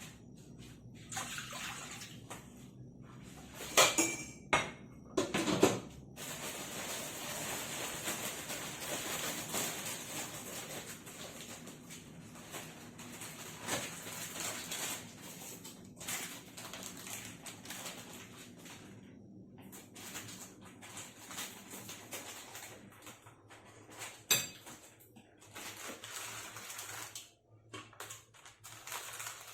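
Kitchen sounds: a few sharp clanks of metal cookware or dishes, then water running for about ten seconds, followed by scattered lighter knocks.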